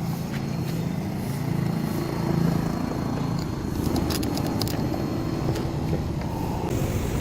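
12-volt diaphragm pump of a portable 100 PSI washer running steadily with a low, even drone, with a few sharp clicks about four seconds in.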